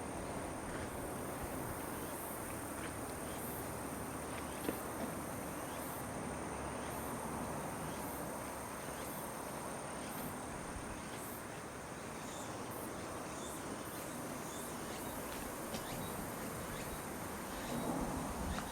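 Insects trilling steadily in one high, unbroken tone over an even background rush. A single short tap comes about four and a half seconds in, and a brief louder rustle near the end.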